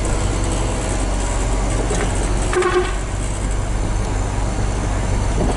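Hino 500 FM320TI truck's diesel engine running steadily, heard from inside the cab as a low, even hum. A short tone sounds briefly about two and a half seconds in.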